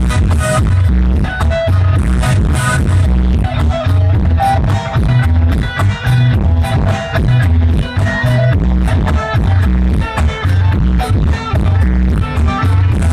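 Live band music through PA speakers, recorded close up so the heavy bass swamps the rest: an instrumental passage with a steady beat and guitar.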